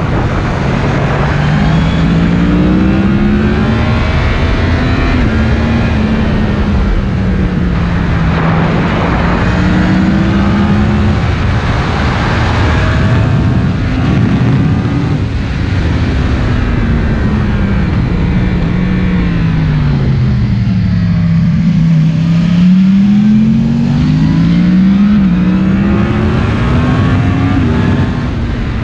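Yamaha MT-10's crossplane inline-four, breathing through an Akrapovic silencer, under way: engine pitch rises and falls as it accelerates and eases off through the gears, dropping lowest a little past two-thirds through before pulling up again, over a steady rush of wind.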